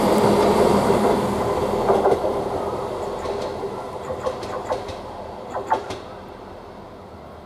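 Class 158 diesel multiple unit moving away, its rumble fading steadily. Wheels click over rail joints several times between about 2 and 6 seconds in.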